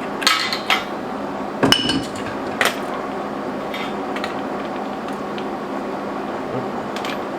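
Steel pieces and tools clanking irregularly in a blacksmith's shop, with the loudest clank, about two seconds in, ringing briefly. A steady hum runs underneath.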